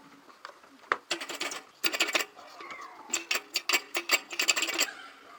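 Small metal parts and tools clinking and rattling as an appliance is taken apart for repair, in quick runs of sharp metallic clicks that stop shortly before the end.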